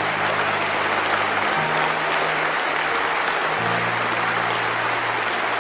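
Steady applause from a crowd over sustained low music chords that change twice.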